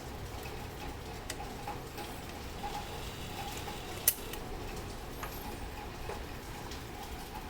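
A few light, irregular clicks and ticks, with one sharp click about four seconds in, over steady background noise.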